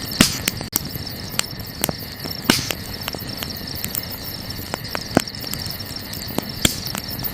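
Wood campfire crackling, with irregular sharp pops and snaps, the loudest about a fifth of a second and two and a half seconds in. Underneath runs the steady, high chirring drone of crickets.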